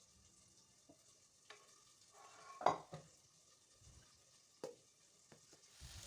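A few light clicks and knocks of kitchen utensils against a pan, the loudest about two and a half seconds in. Near the end, chicken pieces start sizzling steadily in hot oil as they begin to fry.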